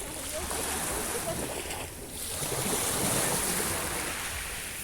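Sea waves breaking and washing on the shore, a steady rush that dips briefly about two seconds in and then swells again as the next wave comes in.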